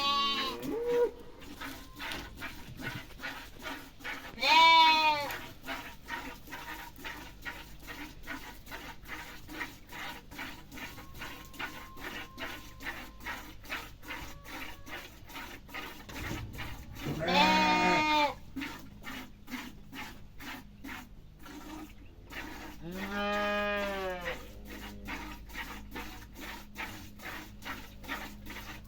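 Farm livestock calling: four drawn-out calls, each rising and falling in pitch, spread across the stretch. Under them runs a steady patter of faint clicks, about three a second.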